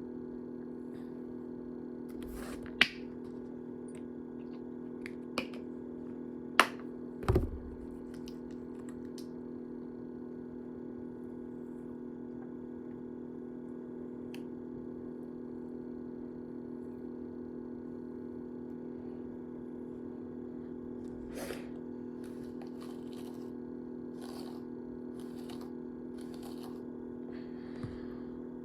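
Steady electrical hum with a few sharp clicks and light handling noises from hair styling, the loudest clicks about three, six and a half and seven and a half seconds in.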